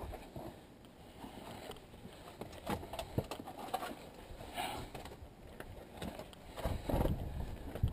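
A hiker's footsteps and gear rustling on a forest trail, irregular light knocks and crunches, with wind buffeting the microphone briefly near the end.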